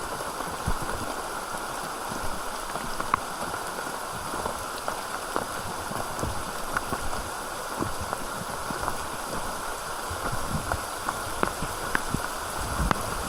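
River water running steadily, with scattered small ticks and splashes through it.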